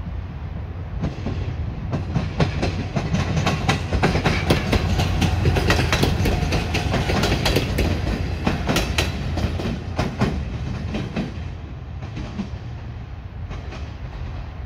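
A train passing on the rails, its wheels clacking rapidly over rail joints under a steady low rumble. It grows loudest in the middle and the clacking dies away about eleven seconds in.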